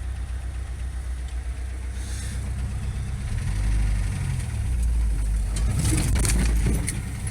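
A vehicle driving slowly over a rough, rutted dirt track: a steady low engine and road rumble that grows louder about three and a half seconds in, with a cluster of knocks and rattles near the end as it goes over bumps.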